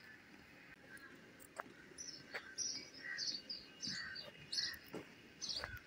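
Birds chirping outdoors in short, repeated calls that start about two seconds in, with a few faint clicks.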